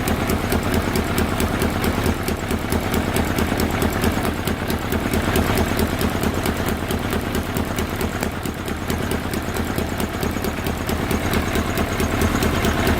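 Yamaha Thunderace YZF1000R four-cylinder engine idling steadily, with a fast, even mechanical ticking over the hum. The owner hears this as an engine noise and wonders whether his not-yet-bled hydraulic clutch is behind it.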